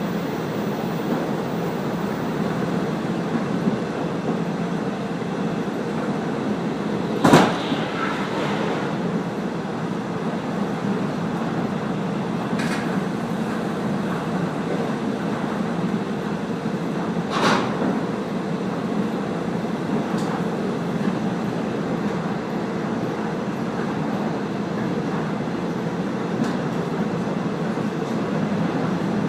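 Steady running noise of the Kaze-kko diesel railcar under way on the line, with two sharp clanks about a third and two-thirds of the way through and a few fainter knocks between.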